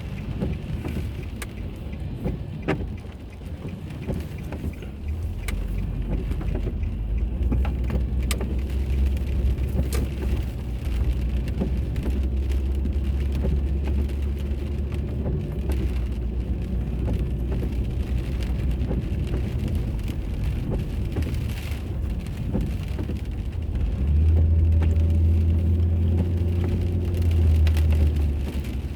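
Car driving on a road: steady low engine and tyre rumble with road noise, picking up about five seconds in and loudest for a few seconds near the end.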